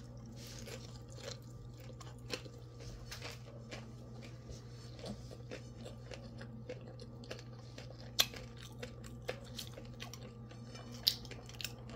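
A person chewing a mouthful of rice eaten by hand: soft mouth sounds and scattered small clicks, with two sharper clicks about eight and eleven seconds in, over a steady low hum.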